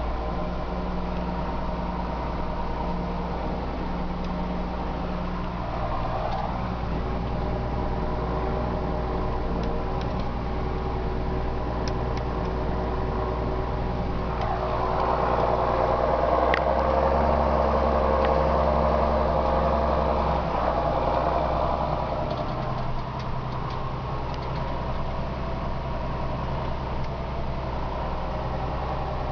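John Deere 6610 tractor's six-cylinder diesel engine running steadily while pulling a plough. It grows louder about halfway through for several seconds, then eases back.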